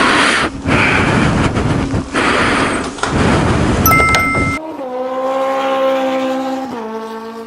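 BMW S1000RR motorcycle engine and exhaust, running loud in short segments broken by abrupt cuts. About four and a half seconds in, it gives way to a steady pitched tone that steps down once and fades.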